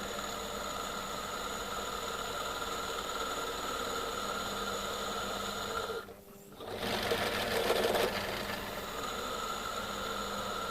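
Pillar drill's electric motor running steadily, drilling steel. It cuts out briefly about six seconds in, then runs again with a louder, rougher stretch.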